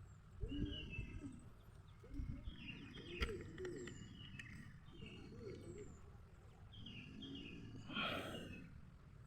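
Small birds chirping in short repeated phrases, with thin high descending whistles, over faint low thumps. There is a sharp click a little after three seconds and a brief noisy burst about eight seconds in.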